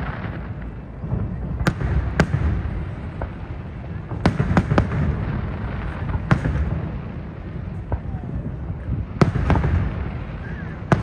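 Fireworks exploding in the sky: a series of about eight sharp bangs, some in quick pairs, over a continuous low rumble.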